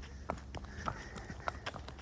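Horse's hooves striking a paved road at a walk, an evenly spaced clip-clop of sharp knocks about one and a half a second.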